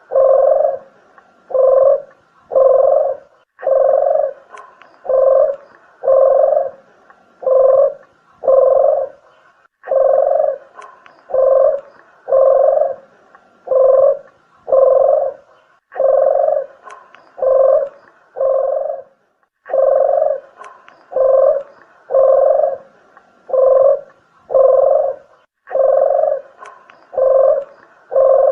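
Dove cooing as a bird-lure call, the turtle-dove call known locally as deruk or puter geni: low, hollow coos about one a second, repeated in runs with a short pause every five to six seconds.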